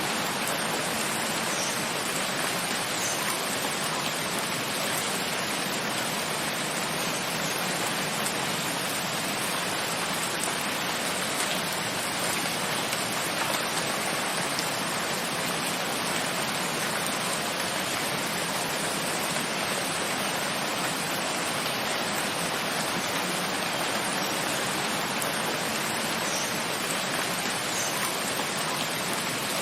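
Steady rain falling: a dense, even hiss that never lets up, with a few faint individual drop ticks.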